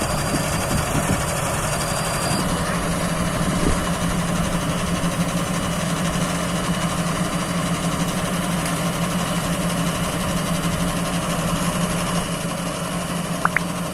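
Rice combine harvester's diesel engine running steadily with a constant hum, its note firming up a couple of seconds in. A few short rising chirps near the end.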